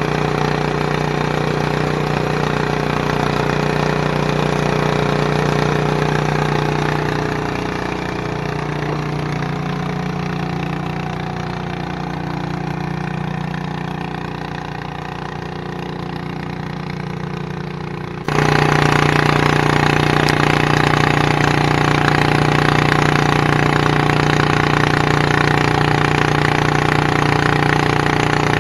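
Garden tractor pulling engine running steadily, its sound slowly fading. About eighteen seconds in, it cuts abruptly to a louder engine running steadily.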